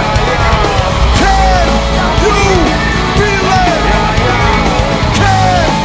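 Live band playing a loud instrumental passage of a rock-soul song, with a lead line that bends up and falls back about once a second.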